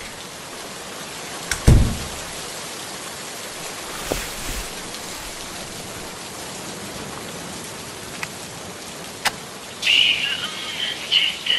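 Steady rain falling, with a few sharp drip-like clicks and one heavy low thump just before two seconds in. Near the end a high, wavering tone comes in over the rain.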